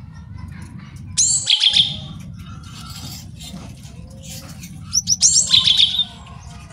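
Male gelatik batu (cinereous tit) singing: two loud bursts of quick, high, falling notes about four seconds apart, with faint chirps and a steady low rumble between them.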